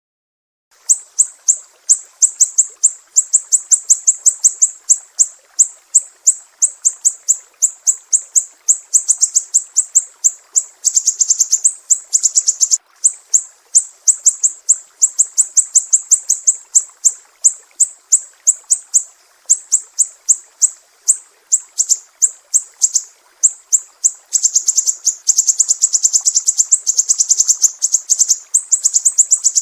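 Siri-siri songbird singing a long run of sharp, high, piercing notes, about four or five a second, starting just after a moment of silence. Twice the notes crowd together into faster, denser trills.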